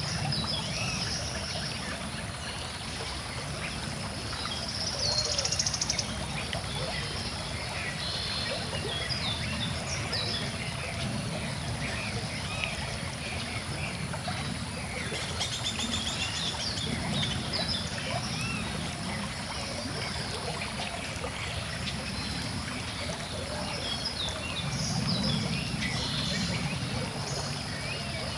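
Stream flowing steadily with a constant trickling rush, with small birds chirping and singing over it. A rapid bird trill stands out about five seconds in, and another comes about halfway through.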